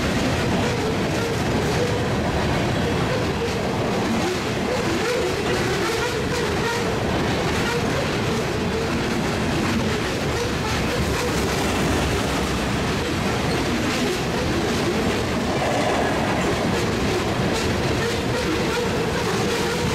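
Freight train tank cars rolling past close by: a steady rumble of steel wheels on rail, clicking over the rail joints, with a wavering metallic tone from the wheels.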